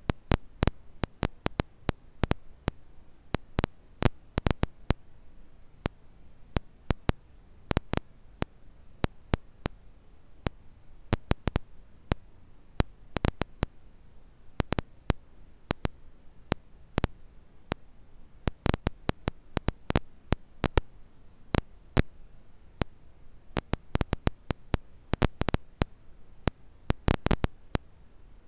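Campfire crackling: irregular sharp pops and snaps, often in quick clusters, over a faint steady hiss.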